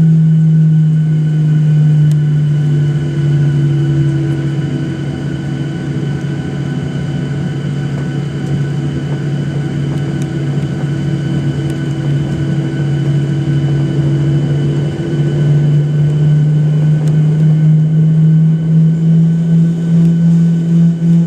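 Cabin noise inside a Boeing 737-800 on the ground: a steady low engine hum with a hiss of air, easing a little midway and rising again near the end.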